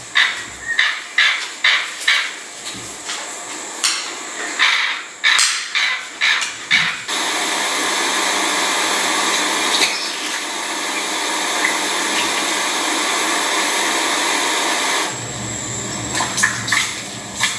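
A bird's short, sharp calls repeated about two or three times a second for the first seven seconds. Then, after an abrupt change, a steady rushing noise of running water, which softens near the end with a few more sharp calls.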